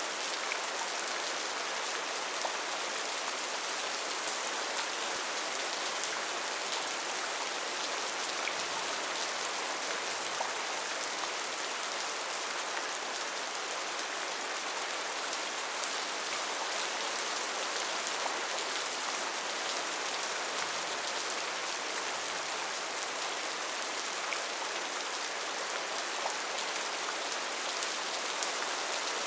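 Steady rain falling on a tin roof: an even hiss with many small drop ticks, unchanging throughout.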